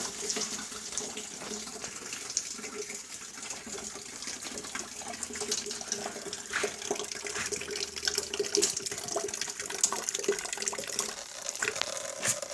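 Water running steadily down a drain just cleared with a threaded-rod snake, with scattered small clicks and knocks.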